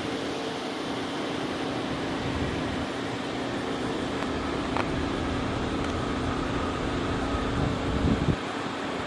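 Steady mechanical hum with a low, even droning tone, from engines running at a distance.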